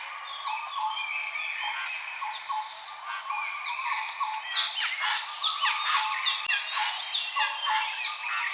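A dense chorus of many small birds chirping and singing over one another, with short chirps and quick whistled glides; it grows busier about halfway through.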